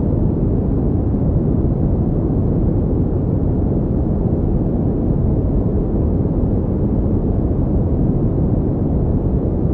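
Steady pink noise: an unbroken, even hiss with most of its weight low and deep, and little treble.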